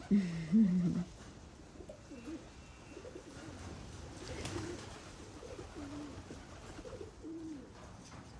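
Feral pigeons cooing repeatedly: one louder, close coo in the first second, then softer coos every second or so.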